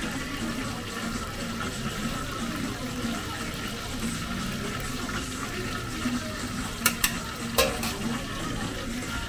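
Food frying with a steady sizzle, with three short sharp clicks about seven seconds in.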